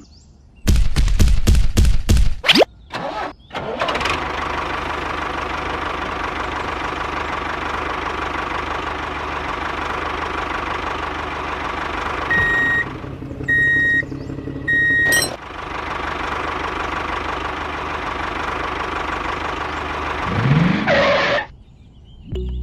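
Small engine of a model mini tractor being started: a few loud, irregular strokes while it cranks and catches, then it runs steadily. Three short, high beeps sound in the middle. Near the end the engine revs up with a rising pitch, then cuts off suddenly.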